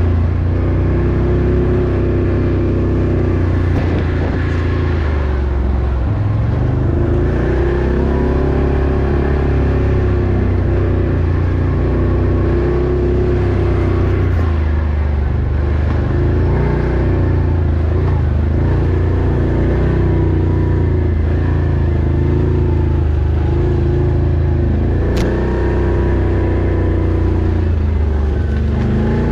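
An off-road vehicle's engine running under way, its pitch rising and falling repeatedly with the throttle.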